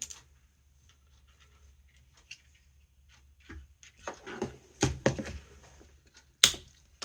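Handling noises on a work bench: scattered light ticks, then from about four seconds in a run of rustling and scraping with a few sharp clicks, as a silicone-potted part is handled.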